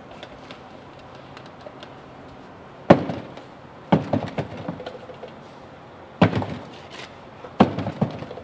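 Four loud knocks on a trash can, each followed by a short rattle, as a used filter is banged against it.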